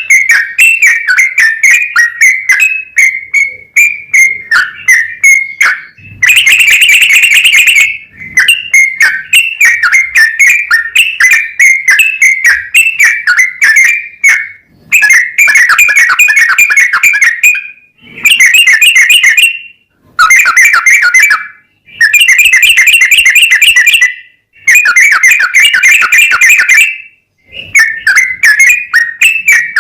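Yellow-vented bulbul (trucukan) singing a long, fast run of bubbling, chattering whistled notes. The song comes in repeated phrases of a second to several seconds, with brief pauses between them.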